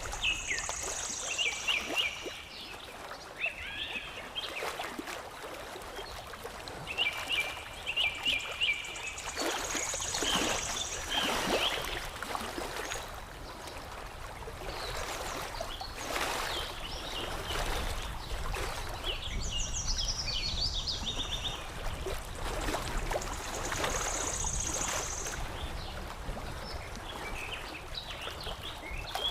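Water lapping and trickling with birds chirping over it: short chirping trills come every few seconds, and a high buzzy trill returns about every ten seconds.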